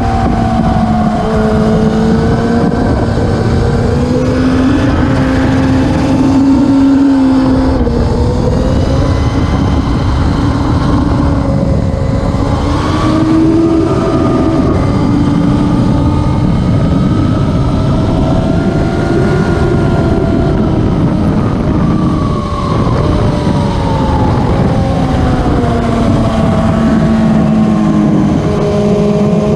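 Classic superbike racing motorcycle engines running loud and continuously, their pitch rising and falling slowly as the revs change.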